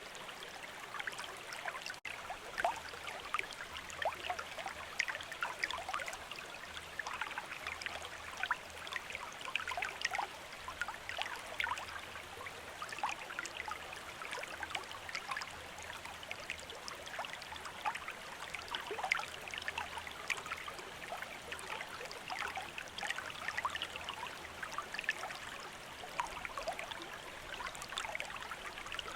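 River water running: a steady rush with many small, quick splashes through it. The sound drops out for an instant about two seconds in.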